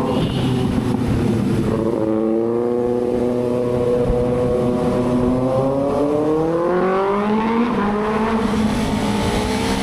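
Kawasaki ZX-6R's inline-four engine, fitted with an SC-Project exhaust, running under way. The revs drop at the start, hold steady for a few seconds, then climb over several seconds, ease briefly and climb again near the end.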